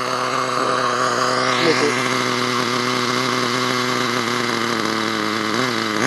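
HPI Nitro Star 4.1 nitro engine of an RC truck idling at a steady pitch.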